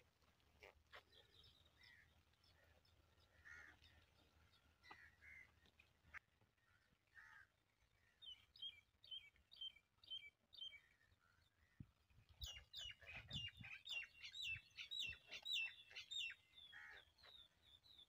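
Bird calls: a run of short, sharp chirps repeated two or three times a second, growing louder about halfway through after a few scattered faint notes.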